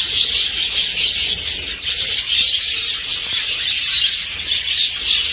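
A large flock of budgerigars chattering together: a dense, continuous wash of overlapping high chirps and warbles.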